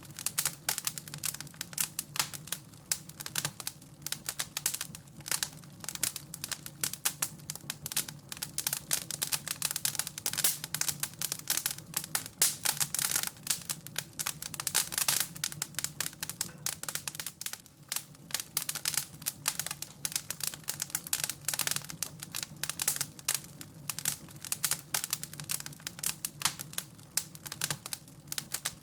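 Wood fire crackling in a fireplace: a dense, irregular stream of small pops and snaps over a low steady hum.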